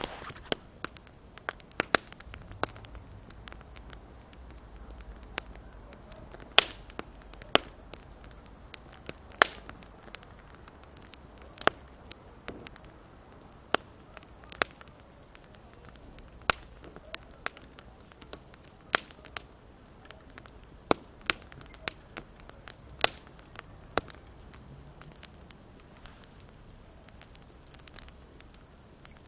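Small wood campfire crackling, with sharp, irregular pops about once or twice a second over a faint steady hiss.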